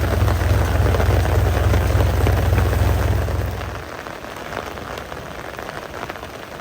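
Steady rain falling and pattering on surfaces, with a strong low rumble underneath that cuts off suddenly about four seconds in.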